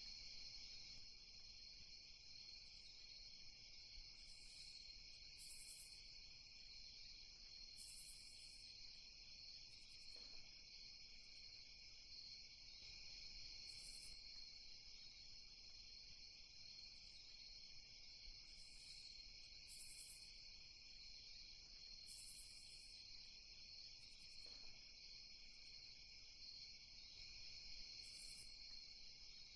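Night ambience of crickets: a faint, steady high-pitched chorus, with short higher chirps every few seconds.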